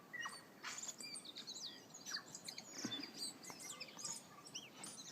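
Tui singing: a busy run of quick rising and falling whistles with clicks, mostly high-pitched.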